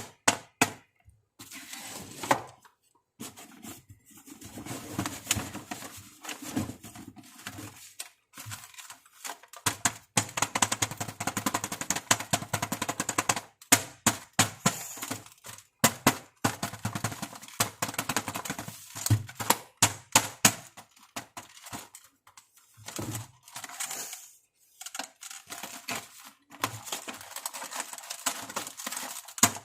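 Small plastic toy makeup pieces and packaging being handled: quick clicks, taps and light knocks in busy runs, broken by short pauses.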